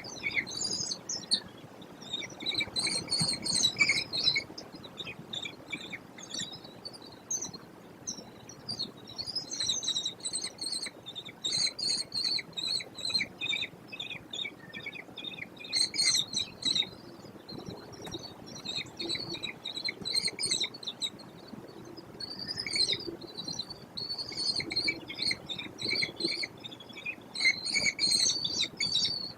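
American kestrels calling at the nest box: bursts of rapid, high-pitched repeated notes, several in a row, with short pauses between the bursts.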